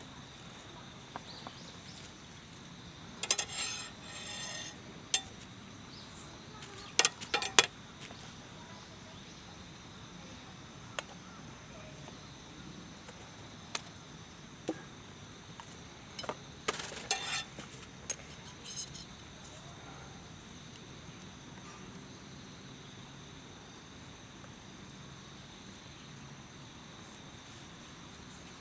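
Light metal clinks and knocks from camp gear being handled, in three short clusters, over steady high-pitched insect trilling.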